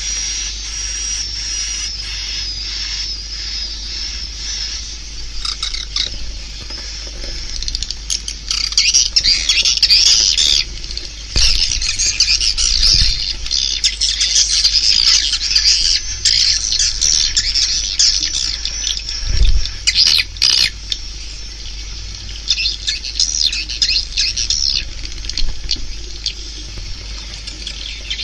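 Swiftlet call recording of the kind played through tweeters to lure swiftlets to a swiftlet house: a dense, continuous high twittering of many swiftlets, busiest from about eight seconds in, over a steady low hum.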